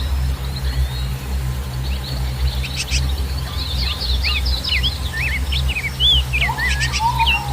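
Songbirds chirping and twittering in quick, rapid whistled notes that start about two seconds in and grow busier toward the end, over a steady low rumble.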